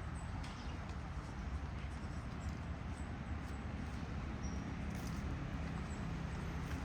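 Outdoor park ambience: a steady low rumble, with the soft irregular footsteps of someone walking and a few brief, faint high bird chirps.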